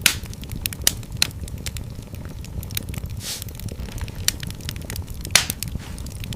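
Wood fire crackling in a fireplace: scattered sharp pops and snaps over a steady low rumble of the flames, with a few louder pops and a brief hiss about three seconds in.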